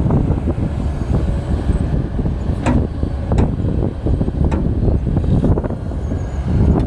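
Heavy diesel machinery of an excavator and dump truck working: a steady low engine rumble with a few sharp metallic clanks.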